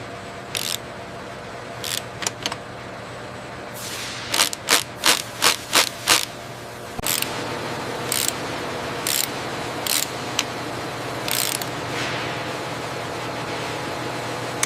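Steady factory machinery hum with short, sharp mechanical bursts on top: a few scattered at first, then a quick run of about six in a row near the middle, then single bursts about once a second.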